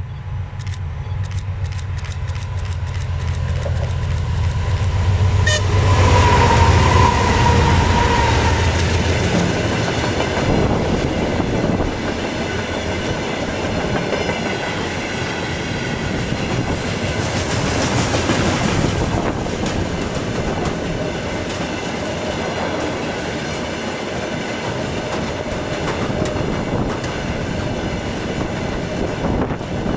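A train passing close by. A deep engine hum comes first, and a tone sounds from about six to nine seconds in, where it is loudest. After that comes a steady rush and clatter of wheels on the rails.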